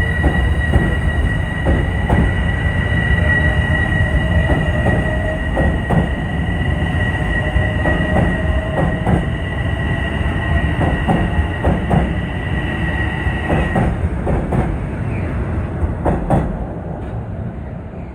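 Commuter train running past the platform, its wheels clicking over rail joints, with a steady high-pitched tone above the rumble that stops about 14 seconds in. The sound then fades as the train moves away.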